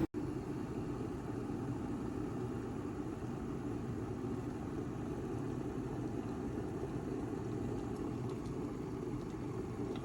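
Glass electric kettle heating water: a steady, low rushing rumble.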